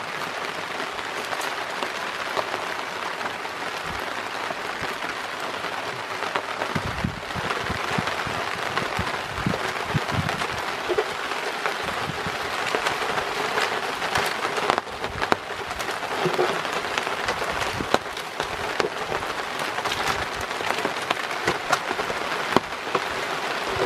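Steady rain pattering on a tarp overhead, with many small drip ticks. Scattered knocks and rustles from handling meat and plastic bags come through now and then.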